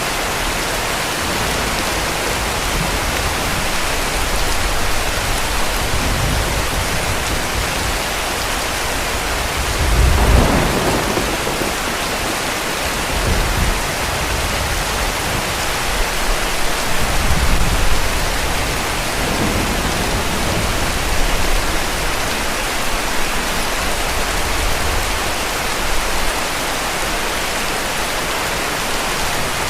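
Heavy rain falling steadily, with distant thunder rumbling low several times. The loudest roll comes about a third of the way in, and fainter ones follow in the middle.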